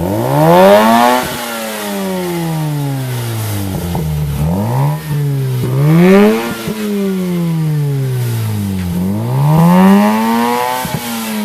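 2004 Mazda RX-8's two-rotor Renesis rotary engine, warm and in neutral, revved three times through a cheap aftermarket eBay exhaust. Each rev climbs quickly, then falls back slowly toward idle.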